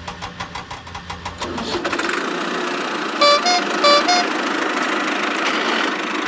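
Cartoon vehicle engine sound effect. It begins with rapid clicking, and about two seconds in a steady engine sound takes over. Two short horn beeps come in the middle.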